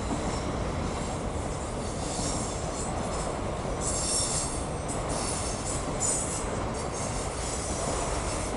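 Autorack freight cars rolling past on the rails with a steady rumble of wheels on track. Brief high-pitched wheel squeals come and go, the strongest about four seconds in and again around six seconds.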